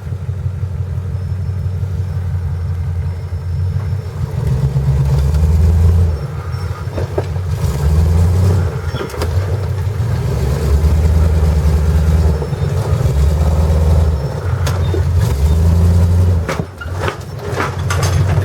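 Off-road 4x4 truck engine running and revving in repeated surges, swelling and easing every second or two. There are a few sharp knocks near the end.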